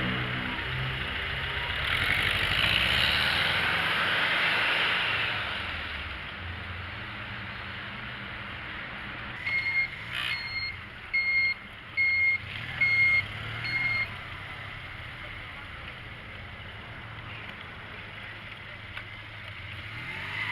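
A vehicle's reversing alarm sounding about six evenly spaced high beeps in the middle, over a background of traffic and wind noise that is loudest at the start.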